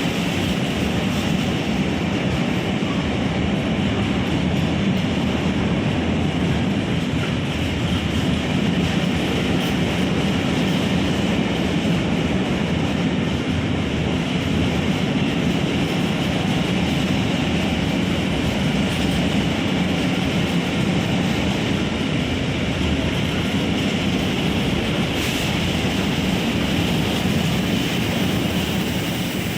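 A train passing through a station, its wheels running steadily on the rails.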